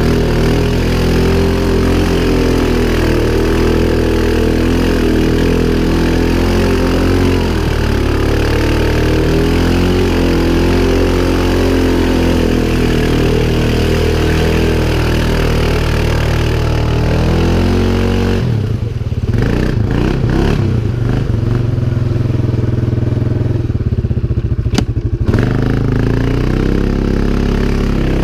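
CFMOTO 500 ATV's single-cylinder engine running with the throttle rising and falling. From about 18 s the higher sound drops away, leaving a deep low-pitched drone for several seconds before the fuller engine sound returns near the end.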